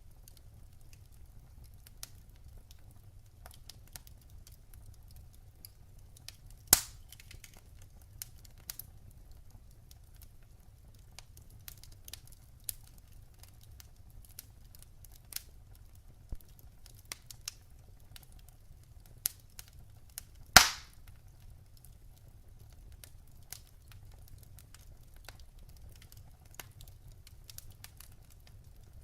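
Wood fire in a fireplace crackling, with scattered small clicks and two loud sharp pops, about seven and twenty-one seconds in, over a low steady rumble.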